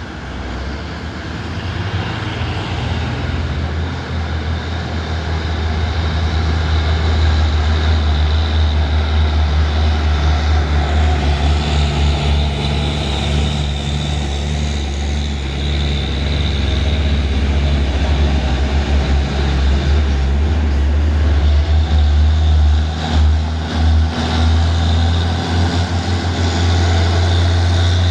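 Heavy truck's diesel engine running, a steady low drone that grows louder over the first several seconds.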